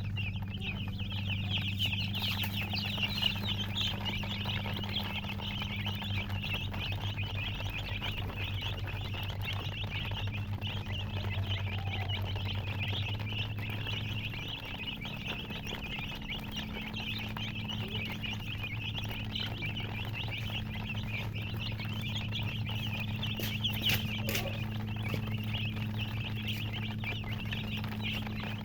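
Many baby chicks peeping continuously, their high cheeps overlapping, over a steady low hum.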